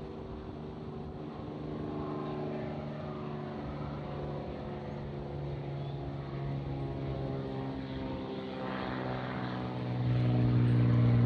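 Propeller airplane flying over, its engine drone steady in tone and growing louder, loudest near the end, with the pitch sliding slowly down as it approaches.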